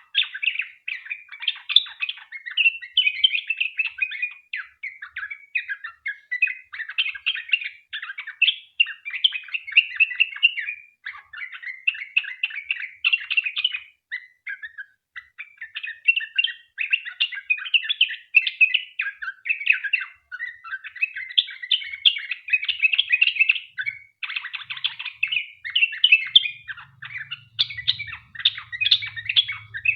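Yellow-vented bulbul (trucukan) singing a long, rapid run of chattering, chirping notes, with only brief pauses.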